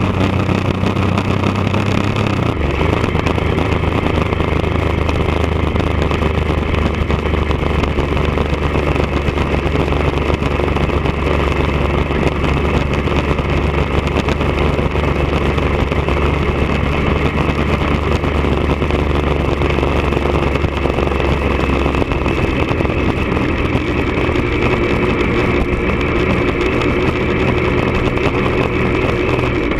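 1999 Triumph Daytona 955i's inline three-cylinder engine running through a D&D aftermarket exhaust at a steady engine speed. The pitch drops slightly about two and a half seconds in, then holds even.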